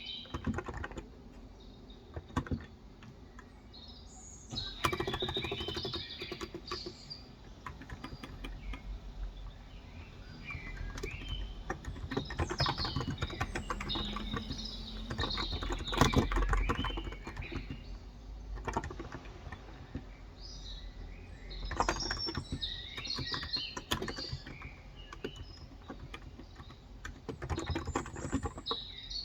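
Typing on a Cox Endeavor electro-capacitive 35 g tenkeyless keyboard, coming in bursts of keystrokes, with small birds chirping throughout.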